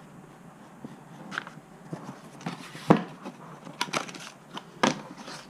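Handling of sound-deadening mat sheets: crinkling and rustling with a few sharp knocks, the loudest about three seconds in.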